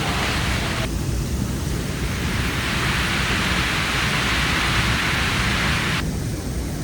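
Heavy rain falling, a steady hiss over a low rumble. The hiss changes abruptly about a second in and again near the end.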